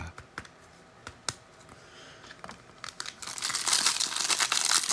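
A few small clicks, then about three seconds in the plastic wrapper of an NFL trading card pack crinkling and tearing as it is ripped open.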